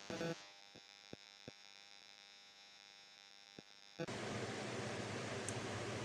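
Faint steady electrical hum with a few small clicks of parts being handled, then a louder steady hiss that starts suddenly about four seconds in.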